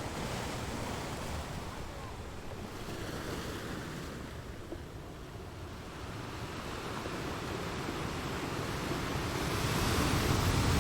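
Ocean waves breaking on a shore in a continuous wash of surf, easing off about halfway through and then swelling louder as a bigger wave comes in near the end.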